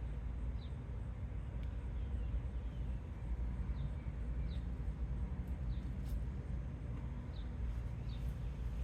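Small bird chirping, short falling high notes repeating about once a second, over a steady low outdoor rumble.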